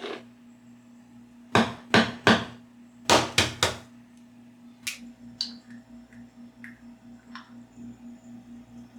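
A series of sharp knocks: three strikes, then a quick run of four about a second later, followed by a few lighter clicks.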